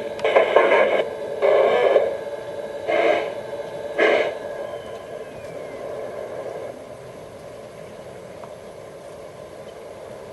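Tinny sounds from a model locomotive's onboard sound speaker: four short bursts in the first four seconds, then a faint steady hum.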